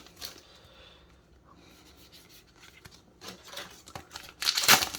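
Yu-Gi-Oh trading cards and booster-pack foil being handled: soft sliding and rubbing at first, then rustling from about three seconds in, loudest near the end.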